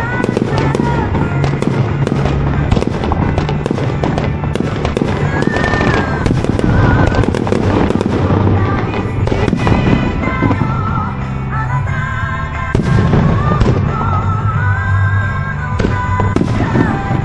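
Aerial fireworks shells bursting one after another in quick succession, with music playing alongside: a sustained melody and a steady bass line.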